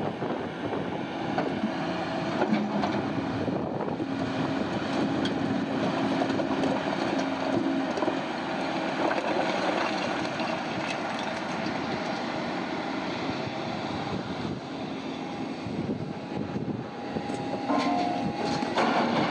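Heavy mining machinery working: a steady diesel drone with shifting engine tones and frequent clanks and knocks, growing louder near the end.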